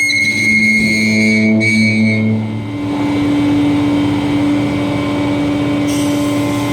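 2000 International 4900 garbage truck's diesel engine running with the packer hydraulics working, with a steady whine. About two and a half seconds in, the pitch steps up and then holds steady.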